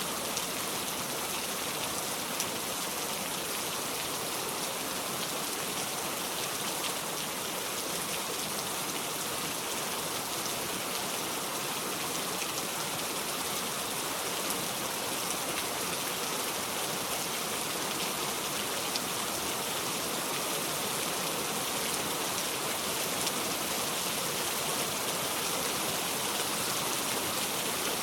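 Steady rain with a fine patter of drops, even in level throughout.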